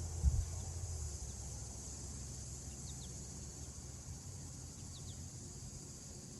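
Steady high insect chirring, with a few brief bird chirps, over a low rumble that is strongest in the first second.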